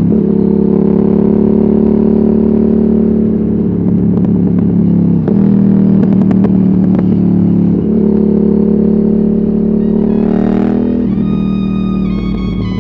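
Ducati Hypermotard 796's air-cooled L-twin running hard through a de-catted Termignoni exhaust with no dB killer. The note breaks and steps in pitch a few times, then rises sharply about ten seconds in before music comes in near the end.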